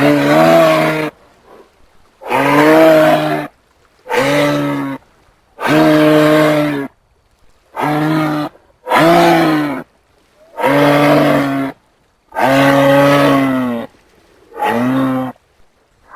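Nine low, moo-like animal calls in a row, each lasting about a second, with a slight rise and fall in pitch and short silent gaps between them.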